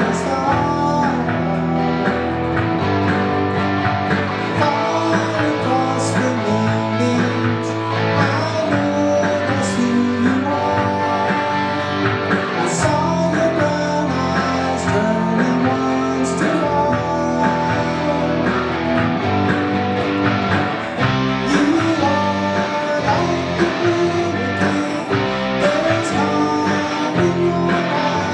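Rock band playing a guitar-led passage, with bass and drums underneath.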